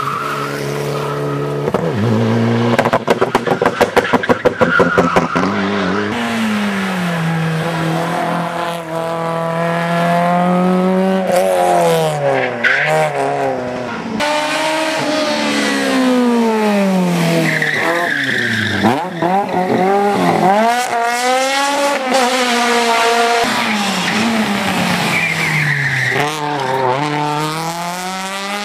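Rally car engine at full throttle on a hill climb, its pitch climbing through the revs and dropping at each gear change and corner. A rapid stutter of exhaust pops comes a few seconds in, and the tyres squeal briefly several times.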